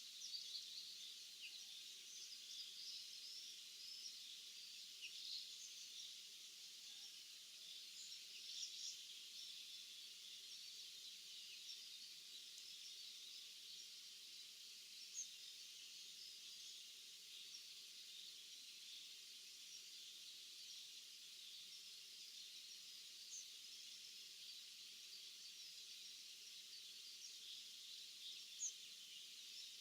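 Faint, busy chorus of small songbirds, many short high chirps and twitters overlapping, with a few louder single chirps now and then.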